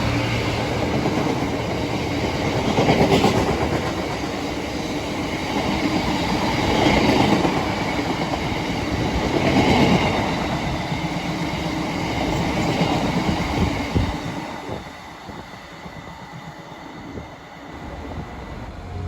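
A train running past on the line, its sound swelling and easing several times. There is a sharp knock about fourteen seconds in, after which the sound dies away.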